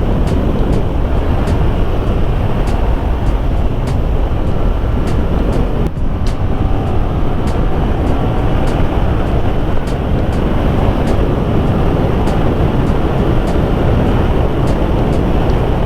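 Loud, steady wind rush on the microphone of a moving motorcycle, with the engine running underneath. A faint rising engine note comes in after about six seconds.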